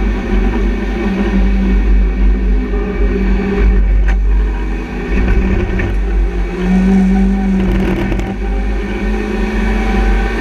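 BMW Compact race car's engine running hard at speed, heard from inside the cabin, its note holding steady with a brief dip in loudness about halfway and rising again after. A single sharp click about four seconds in.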